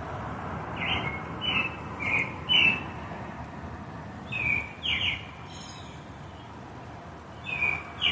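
Songbird singing in the dark: short, clear, downward-slurred chirps, four in a row about half a second apart, then two more, then another run near the end. The singing is taken to be birds confused by a bright artificial light at night.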